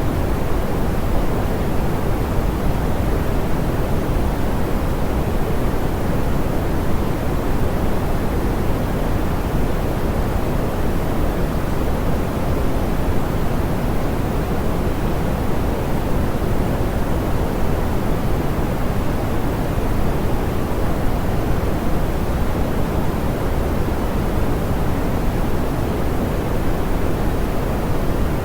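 Steady, soft pink noise: an even hiss weighted toward the low end, with no change in level or texture.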